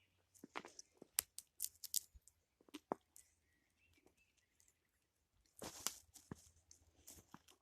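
Footsteps crunching and snapping irregularly on the forest floor, with a longer crunch near the end.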